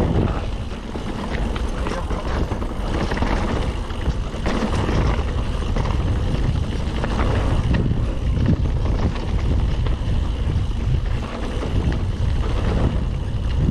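Wind rushing over the microphone, mixed with the rattle and tyre noise of a mountain bike riding fast over rough trail.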